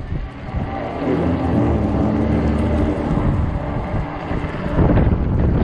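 Wind buffeting the microphone on a moving e-bike, with a steady motor hum of several stacked tones that sets in about half a second in and fades just before the end.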